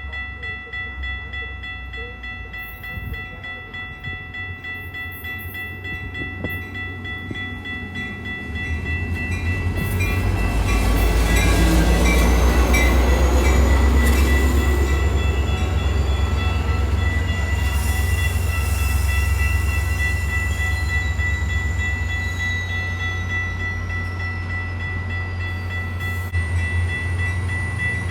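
A train passing on the tracks: a low rumble that builds about a third of the way in, is loudest around the middle, and eases off toward the end.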